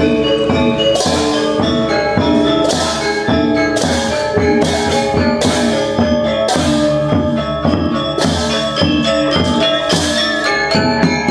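Balinese gong gamelan playing a slow classical lelambatan piece: bronze metallophones ring with sustained, overlapping tones, with cymbal crashes about once a second and low drum strokes.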